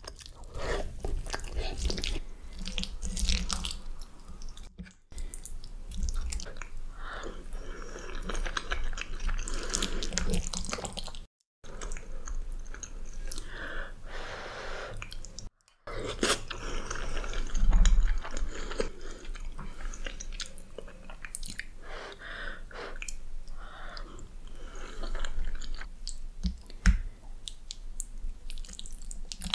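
Close-miked chewing and biting of soft, cheesy pasta (lasagna and baked macaroni and cheese), irregular smacking mouth sounds, interrupted three times by brief drops to silence.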